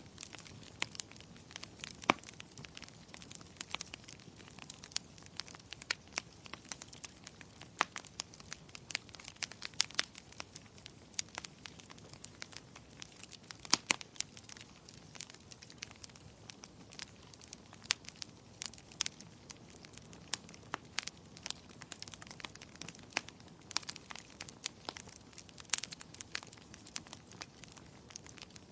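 Wood fire burning in a fireplace, crackling with many irregular sharp pops and snaps over a soft steady hiss; two pops, about two seconds in and near the middle, stand out as the loudest.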